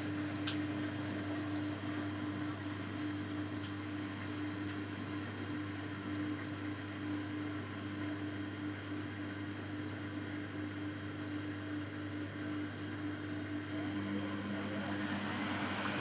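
Miele Novotronic W822 front-loading washing machine running its final spin, the motor and drum giving a steady hum with no change in speed.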